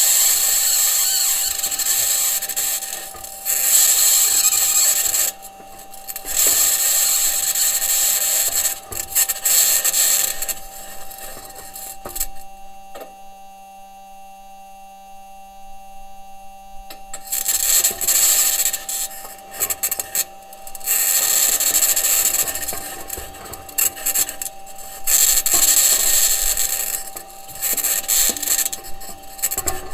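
Perseverance Mars rover's wheels and suspension grinding and scraping over rocky ground as it drives, in rough uneven stretches over a steady high hum. About twelve seconds in, the scraping stops for some five seconds and only the hum is left, then the grinding resumes.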